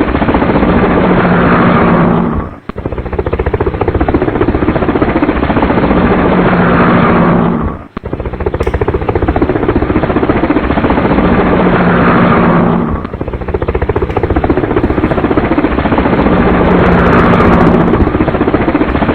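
Helicopter sound effect: a steady, rapid rotor chop over an engine drone. It loops about every five seconds, and the first two loops end in a brief drop-out.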